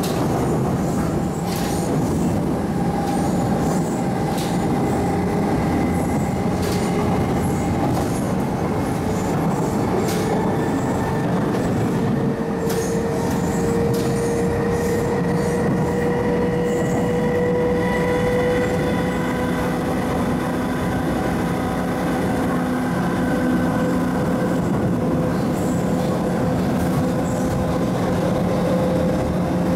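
MTR East Rail Line MLR electric multiple unit running on the line, with a steady rumble of wheels on track and a few ticks from rail joints. A traction motor whine rises slowly in pitch as the train gathers speed.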